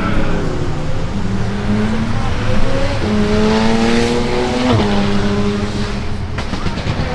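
BMW car engine revving: its note holds steady, climbs for a couple of seconds and then drops sharply a little past the middle.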